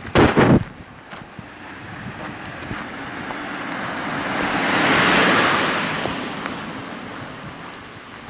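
Footsteps on a forest path, with a loud crunch or bump just at the start. A broad rushing noise swells to a peak about halfway through and then fades away.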